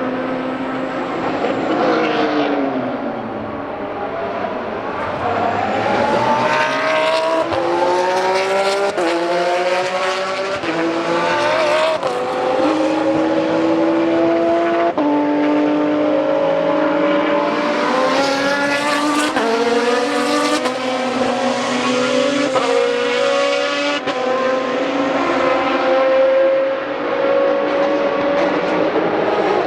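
GT race car engine at full throttle: the pitch first falls as the car slows, then climbs and drops sharply again and again as it upshifts through the gears, about every second and a half. A second burst of acceleration through several upshifts follows.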